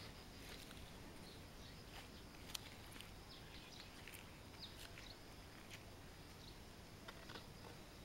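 Faint, short, high chirps of small birds now and then over low background noise, with one sharp click about two and a half seconds in.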